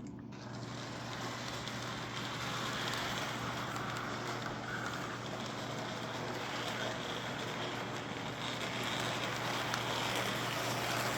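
K-Line O27 toy train running on its track: the electric motor's steady whir and hum with the wheels clattering along the rails, growing gradually louder. The set has no sound system, so this is the mechanism alone.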